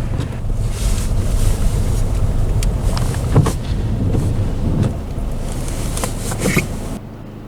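Strong gusting wind buffeting the microphone in a blizzard, a loud rumbling rush with sharp gust spikes; it cuts off suddenly near the end.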